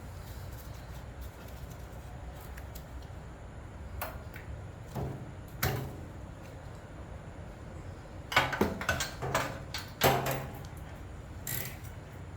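Hand tools clinking and clattering as a socket is picked out and fitted to a small generator's spark plug for removal: scattered metal knocks, then a busier run of clatter about eight to ten seconds in.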